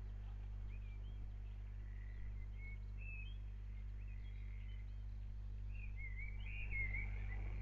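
Birds calling with short chirps and whistled notes, more of them near the end, over a steady low hum.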